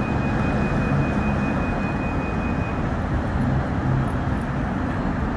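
Steady rumble of a BTS Skytrain train and city traffic heard from an elevated station, with a thin high steady whine that stops about three seconds in.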